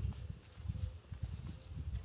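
Footsteps of a walker on a woodland path: soft, dull thuds about twice a second.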